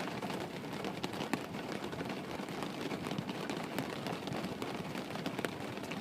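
Steady rain: an even hiss with scattered taps of individual drops.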